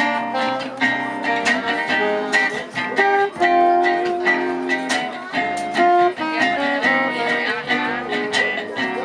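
Live gypsy-jazz (jazz manouche) band playing: quick plucked guitar melody over strummed guitar chords and low bass notes.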